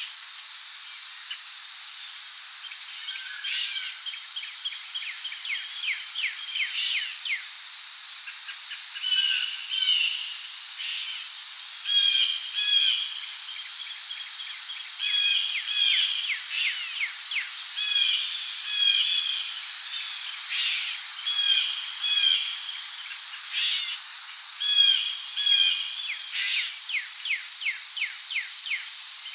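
Rainforest ambience: insects droning steadily at a high pitch, with birds calling in short repeated chirps and trills over it.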